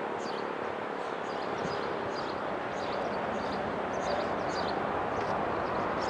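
Outdoor ambience: a small bird chirps repeatedly, about twice a second, over a steady bed of wind and distant traffic noise, while a faint low tone dies away in the first couple of seconds.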